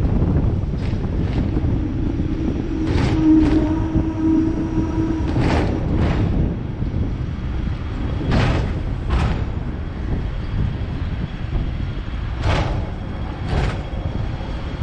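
Hong Kong double-decker electric tram running along its rails: a steady low rumble, with pairs of sharp clacks every two to four seconds as the wheels cross rail joints. A brief hum rises and fades about three to five seconds in.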